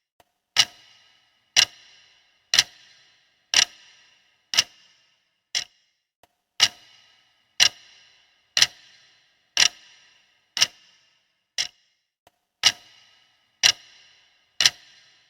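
A clock ticking steadily, one sharp tick about every second, each with a short ring after it.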